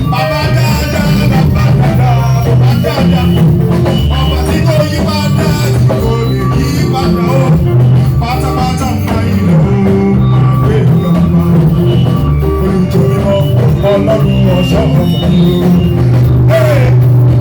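Church praise band music with singing over a heavy, steady bass line.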